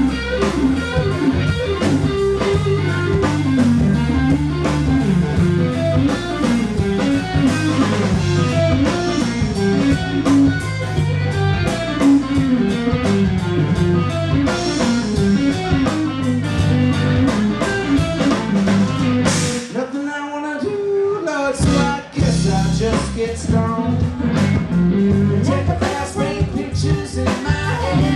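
Live blues-rock band playing an instrumental break, with an electric guitar lead bending notes over bass and drums. About two-thirds of the way through, the bass and drums stop for a couple of seconds while the guitar plays alone, then the full band comes back in.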